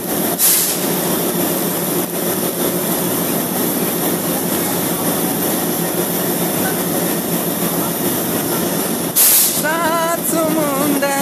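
Passenger coaches of an electric-hauled express train rolling past along a station platform, a steady rumble of wheels on rail. Two short bursts of hiss come about half a second in and again near the end, and music with singing comes in over it in the last second or so.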